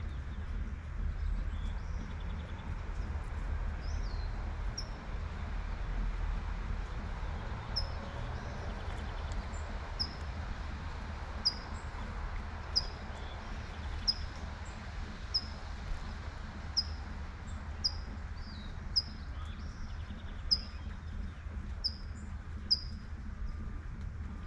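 A bird repeats one short, high chirp about once a second over steady light rain and a low rumble of city traffic.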